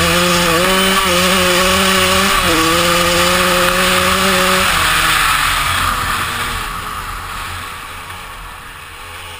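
KTM 200 EXC's two-stroke single-cylinder engine held at high revs under load, with a short drop in pitch about two and a half seconds in. About five seconds in the throttle is shut and the engine note falls away, the sound getting steadily quieter.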